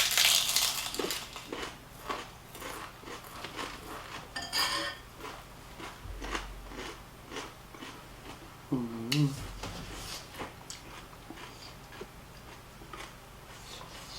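Close-miked eating sounds: chewing and mouth smacks with scattered clicks of dishes and cutlery, loudest in the first second.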